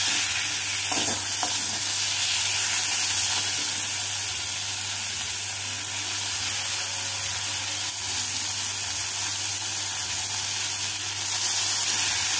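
Oil and spice masala sizzling steadily in a kadai as raw boneless chicken pieces are dropped into it.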